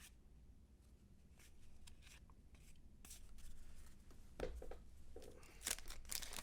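Cardboard trading cards being handled and flipped through: faint slides and flicks of card against card, growing into louder rustling and clicks in the last two seconds.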